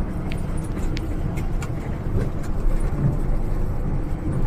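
Steady low rumble of a bus under way, a Hino RN285, with a couple of faint clicks in the first second.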